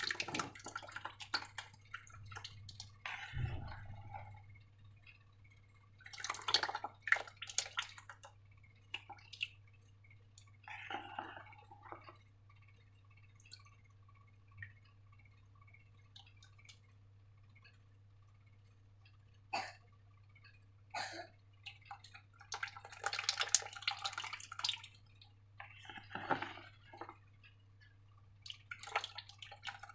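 Sticky slime squelching and dripping as it is worked by hand, in bursts of wet crackling and clicking with quiet gaps between.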